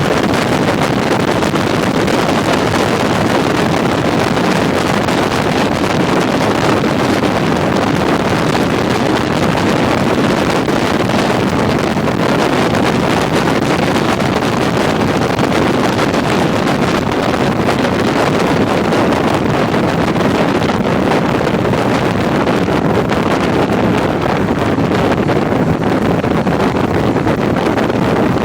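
Steady wind rushing over the microphone of a motorcycle on the move, with the vehicle's running noise underneath.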